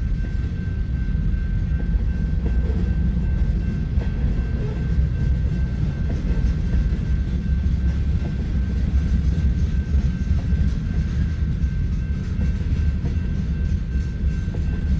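Freight train cars rolling past: a steady low rumble of steel wheels on the rails, with a thin steady high tone above it.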